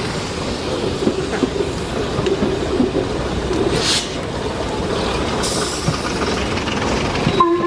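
Railway train at a station platform: a steady rumble, with a short hiss about four seconds in and a fainter one a little later.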